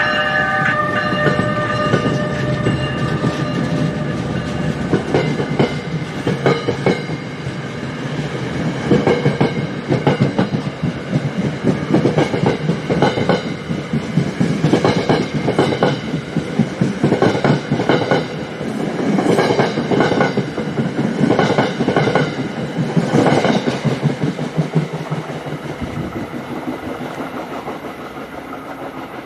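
New Jersey Transit train hauled by an ALP-46 electric locomotive with Comet V coaches pulling out of the station. The end of a horn blast sounds in the first second, then the wheels clack over the track. The sound fades near the end.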